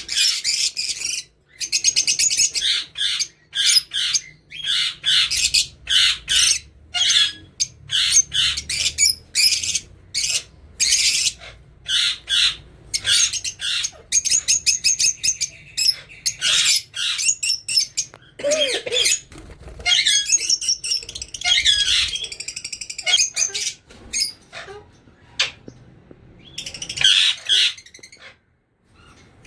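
Pet parrots calling: a long run of short, harsh, high-pitched squawks and screeches, one after another with brief gaps.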